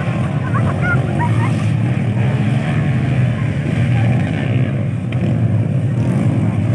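Dirt-bike engines running steadily as a low, continuous rumble.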